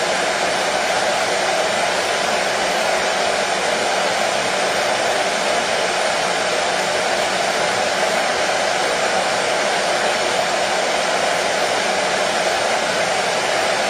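Hair dryer running steadily: a constant, even rushing of air with no change in pitch or level.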